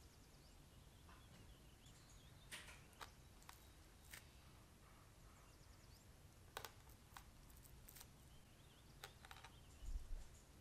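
Very quiet: a chef's knife pressing down through cheese slices onto a plastic-wrapped wooden cutting board, giving scattered faint clicks and taps and a soft thump near the end.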